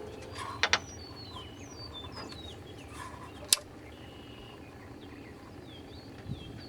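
Small birds chirping in a run of short, falling chirps. Two sharp clicks come close together about two-thirds of a second in, and a louder single click about halfway through.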